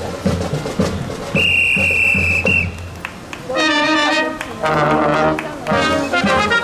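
A single long whistle blast, then a brass band starts playing sustained chords with trumpets and trombones.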